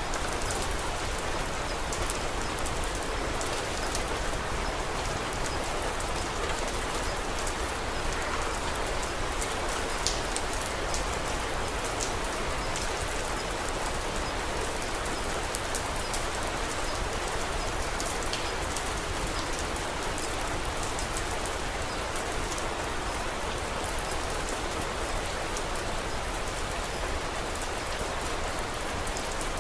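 Steady rainfall, an even hiss sprinkled with many small sharp ticks.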